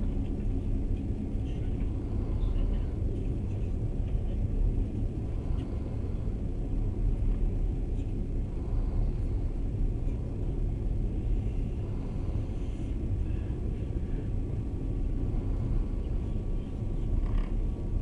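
Passenger train running steadily, heard from inside the carriage: an even low rumble from the wheels and rails, with a faint steady hum above it.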